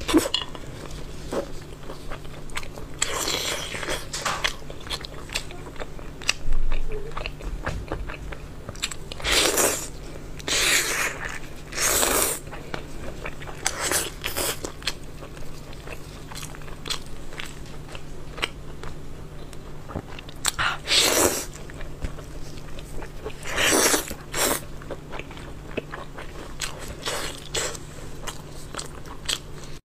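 Close-miked eating of chicken: loud crunchy bites every few seconds, with smaller chewing clicks and smacks between them, over a faint steady low hum.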